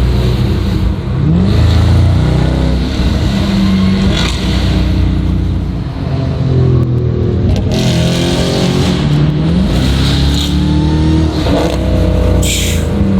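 Dodge Hellcat Redeye's supercharged V8 running loud through a new aftermarket performance exhaust under hard acceleration. The revs climb and drop several times, and the exhaust is called monstrous.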